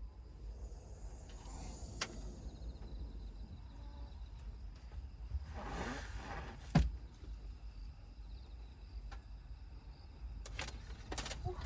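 A car's power window running and shutting with a sharp thump about two-thirds of the way in, over a steady low rumble, with a few faint clicks.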